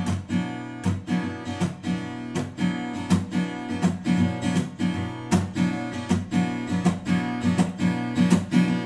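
Acoustic guitar strummed in a steady rhythm, chords ringing between strokes, with no singing.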